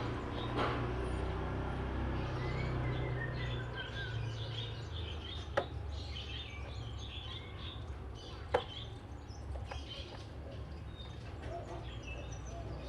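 Oriental magpie-robin (kacer) singing a run of short, varied chirping notes over a steady low hum, with two sharp clicks about a third and two thirds of the way through.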